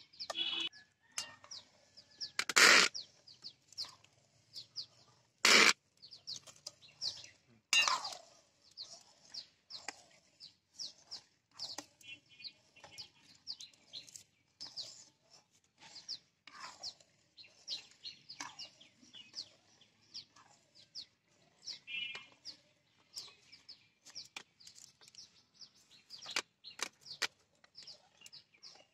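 Birds chirping over and over in short high calls, with a few loud sharp knocks, the loudest about three seconds and five and a half seconds in.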